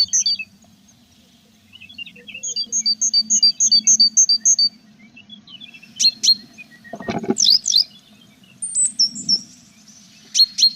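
Tits chirping: a quick run of high two-note chirps, then scattered high chirps and glides. A couple of short rustling thumps come just past the middle.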